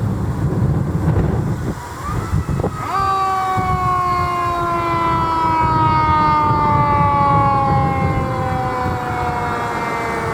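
Fire truck's mechanical siren spun up sharply about three seconds in, then winding down slowly in a long falling wail, over the low rumble of a heavy engine and road noise.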